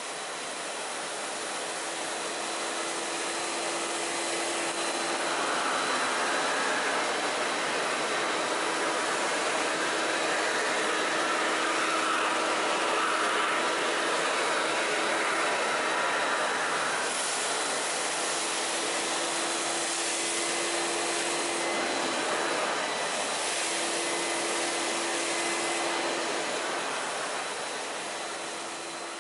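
Karcher Puzzi 100 spray-extraction carpet cleaner running its vacuum motor as the floor nozzle is worked back and forth over carpet, spraying solution and sucking it back up: a steady rushing whoosh. A low hum cuts in and out several times over it.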